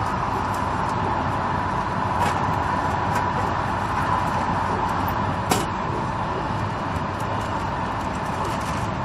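Moving train heard from inside the carriage: a steady running rumble with a faint steady high tone. A few light clicks sound over it, the sharpest about halfway through.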